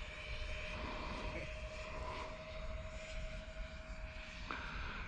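Electric ducted fans of an E-flite A-10 RC jet in flight at a distance: a faint, steady thin whine that drops away near the end.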